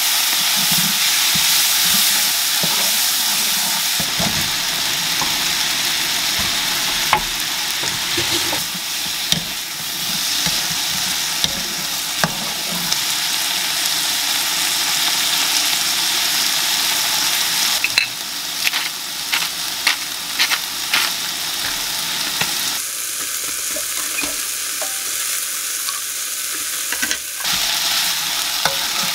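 Duck meat, garlic and cherry tomatoes sizzling steadily in a nonstick frying pan, stirred with a wooden spatula that clicks and scrapes against the pan now and then.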